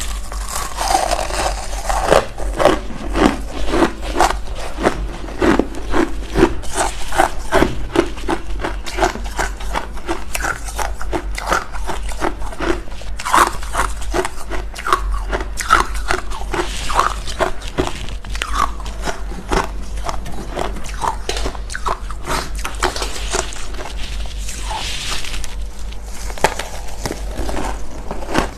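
Freezer frost being bitten and chewed close to the microphone: a continuous run of crisp crunches, several a second, over a steady low hum.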